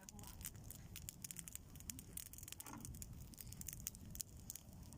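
Bonfire crackling, with many quick sharp snaps and pops over a low rumble.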